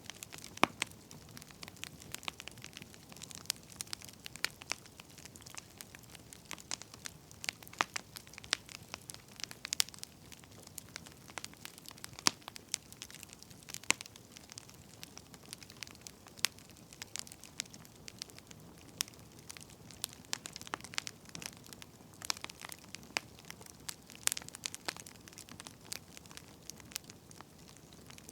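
Firewood burning: irregular sharp crackles and pops over a low, steady hiss.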